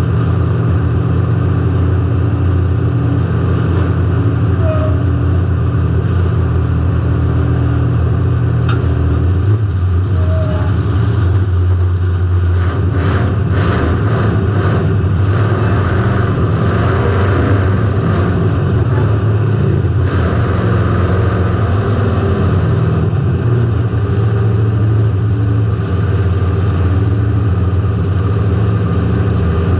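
A car engine running with some revving, heard from a camera mounted on the car. About halfway through comes a quick cluster of sharp knocks.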